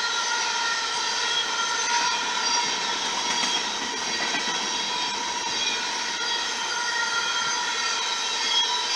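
Empty coal train of open hopper cars rolling past at speed: steel wheels on rail with a steady noise and a high ringing whine that holds through.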